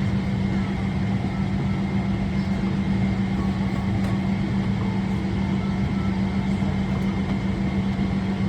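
Steady cabin drone inside a parked Boeing 777-300ER before engine start: the air-conditioning and ventilation running, with a strong low hum and a faint high-pitched whine over it.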